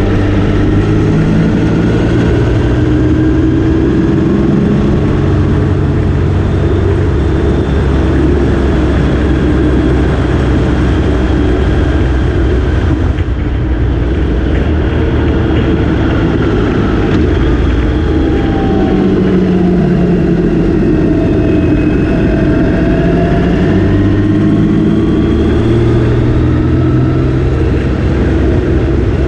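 Motorcycle engine running on the road, its pitch rising and falling as the rider rolls on and off the throttle, over a steady rushing noise.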